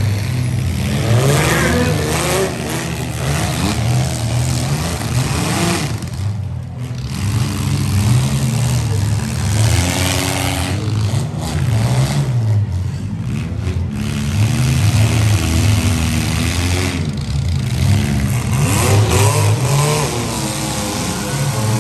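Several demolition derby compact cars' engines running hard together, their revs rising and falling over and over as the cars accelerate and back off around the dirt arena.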